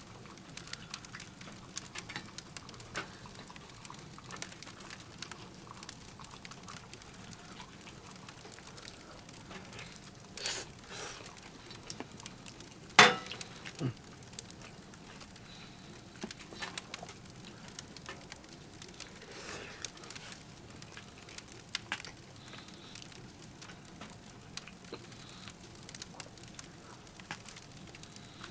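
Firewood crackling in a titanium tent wood stove: irregular small ticks and pops over a soft hiss, with one much louder sharp crack about halfway through.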